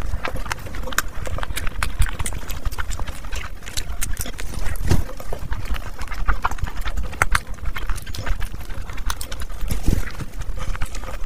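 Close-miked chewing of burgers and stuffed buns by two people: wet smacking and many irregular clicks from mouths and lips as they bite and chew, with no break.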